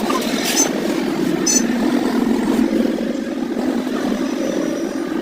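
Small motorcycle engine running steadily, with a couple of short high clicks in the first two seconds.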